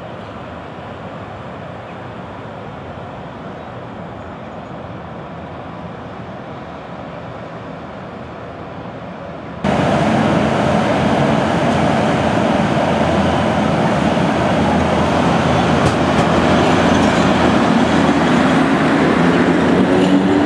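ET22 electric locomotive and its double-deck passenger coaches rolling along the platform: a steady rumble of wheels on rail that jumps suddenly much louder about halfway through as it runs close by, with a rising whine near the end.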